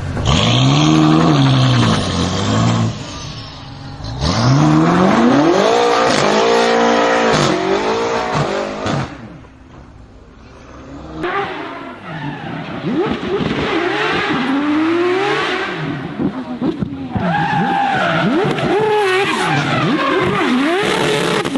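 Supercar engines revving hard and accelerating. The pitch climbs and drops again and again, goes quiet for about a second just before halfway, then returns with a series of shorter up-and-down revs.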